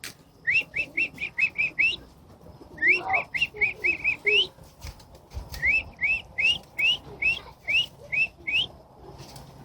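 A bird singing three phrases of quick, repeated rising chirps, each phrase seven to nine notes at about five a second.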